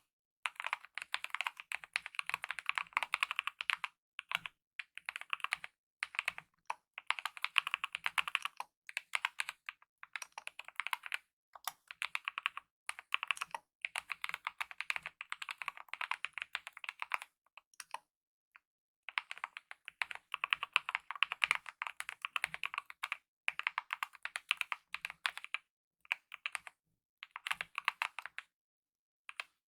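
Typing on a mechanical keyboard with lubed optical red linear switches and DSA-profile keycaps: dense runs of rapid keystrokes broken by short pauses, the longest about a second, a little over halfway through.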